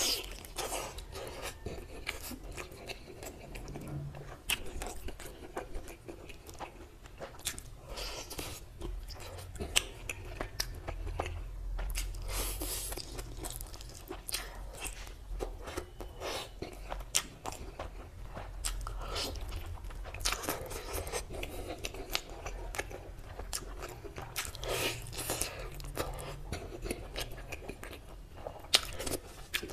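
Close-up chewing and biting: a mutton leg piece bitten, its meat pulled off the bone with the teeth and chewed, with many irregular short, sharp clicks.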